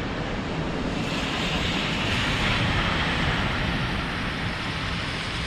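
Street traffic on a slushy, snow-covered road: a vehicle's tyre hiss swells about a second or two in and slowly fades, over wind rumbling on the microphone.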